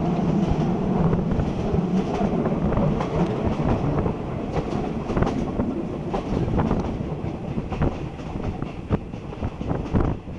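Passenger train running, its steel wheels clacking irregularly over the rail joints above a steady rumble, heard from inside the carriage at an open window.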